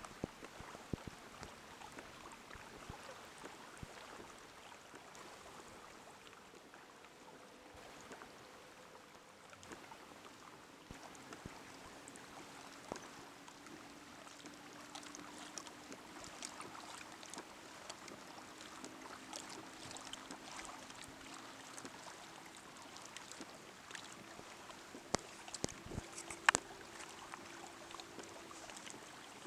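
Water lapping and trickling against the hull of an inflatable Hobie i12S kayak as it moves under its pedal-driven Mirage Drive, with scattered small clicks and a sharp knock near the end. A faint steady low hum comes in about a third of the way through.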